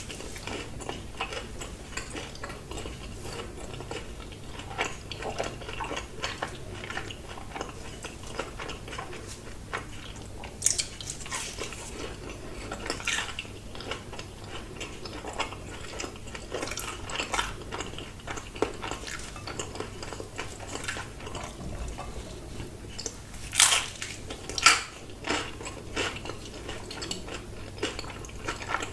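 Close-miked eating sounds: chewing and biting food, with frequent light clinks of cutlery against dishes and a few louder sharp clicks and crunches.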